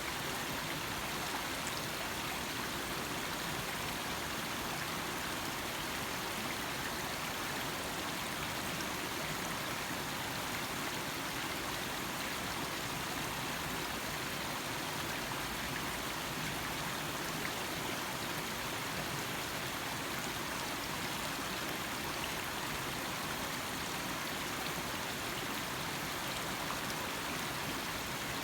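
Small stream running: a steady, even rush and trickle of flowing water.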